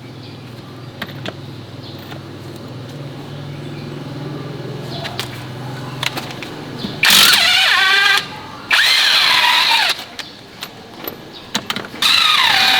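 Farm vehicle's engine running with a steady low hum, then three loud bursts of about a second each, with a pitch that slides and falls, about seven, nine and twelve seconds in.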